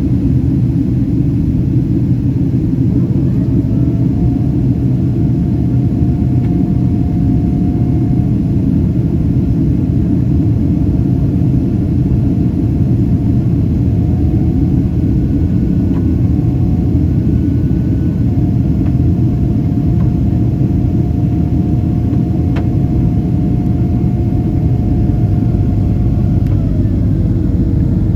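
Cabin noise inside a Boeing 767-332ER in flight: the steady low roar of engines and airflow. A thin whine rises about three seconds in, holds, and falls away near the end.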